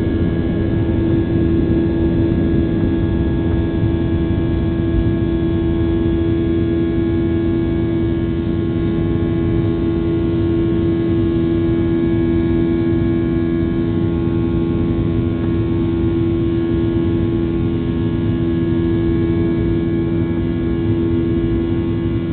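Cabin noise of a Boeing 737-800 with its CFM56 turbofans at take-off power: a loud, steady rumble of engines and airflow with a strong steady hum and fainter whining tones above it.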